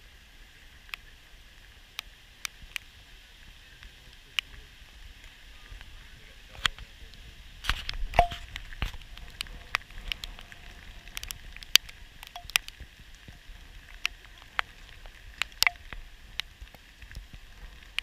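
Rain: irregular sharp ticks of raindrops striking the GoPro housing, over a faint steady hiss of falling rain.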